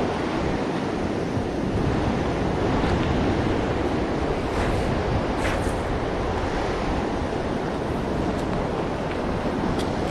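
Ocean surf washing on the beach, mixed with wind buffeting the microphone, steady throughout.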